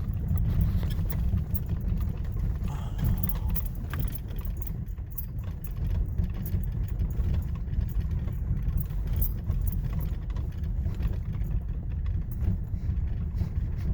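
Steady low rumble of a truck's engine and tyres heard from inside the cab while driving on the road.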